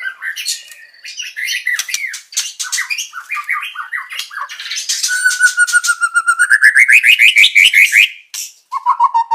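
Songbird song from a masteran training recording for white-rumped shama: quick, varied chirps and harsher squawky notes. About halfway through, a long run of repeated notes climbs steadily in pitch and grows louder, breaks off briefly, then starts again lower near the end.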